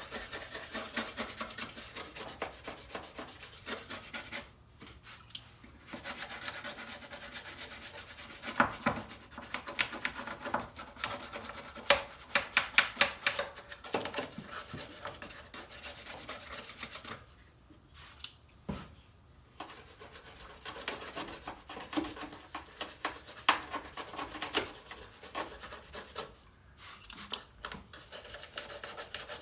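Nylon brush scrubbing grime off engine-bay surfaces wet with degreaser, in runs of quick back-and-forth strokes that stop briefly a few times.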